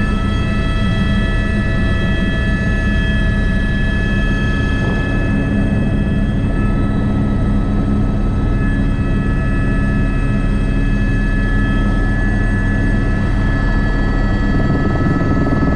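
Airbus AS350B3 (H125) helicopter running steadily in flight: the rotor and engine make a dense low rumble, with several steady high turbine whine tones over it.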